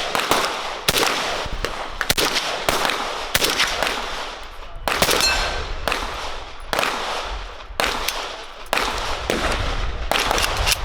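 Gunshots at an outdoor shooting range: single sharp reports, about one to two a second at uneven spacing, each with a short echo.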